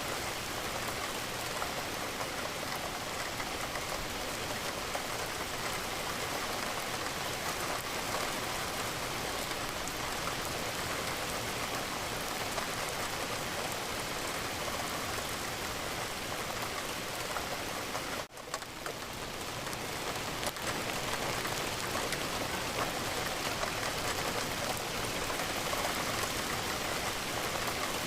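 Steady rain falling against a window. It drops out for an instant about two-thirds of the way through, then fades back up.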